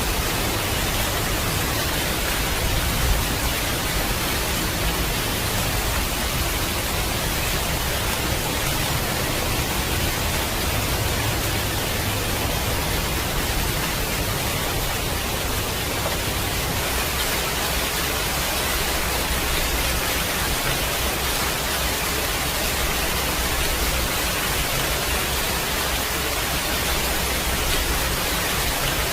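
Steady rain, an even hiss, with a low rumble underneath that swells and fades over several seconds.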